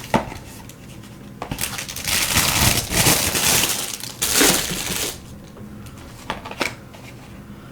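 Packaging crinkling and rustling for about three and a half seconds as it is handled, with a few light clicks and taps before and after.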